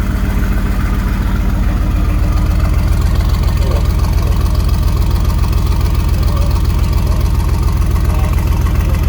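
Mercedes-AMG GT twin-turbo V8 idling steadily, a deep even burble with no revs.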